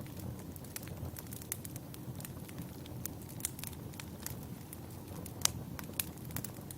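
Firewood burning in a campfire: a steady low rush with irregular crackles and sharp pops scattered throughout, the loudest pop about five and a half seconds in.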